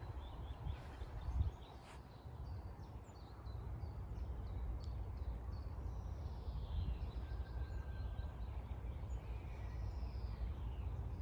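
Birds chirping and calling outdoors: many short high chirps, with two longer calls that rise and fall in pitch, one around the middle and one near the end, over a steady low rumble.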